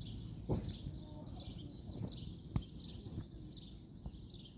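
Small birds chirping repeatedly over a low outdoor rumble, with two sharp clicks about two seconds apart.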